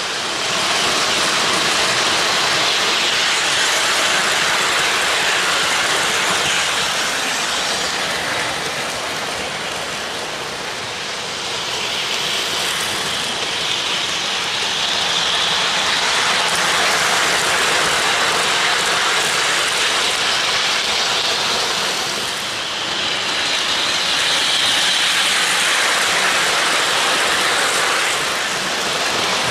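Train rolling along the track: a steady rushing clatter that swells and eases in long waves.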